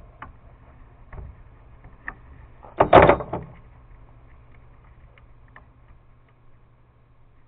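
Light clicks and knocks from handling small metal parts, with one louder, short clattering scrape about three seconds in, over a low steady hum.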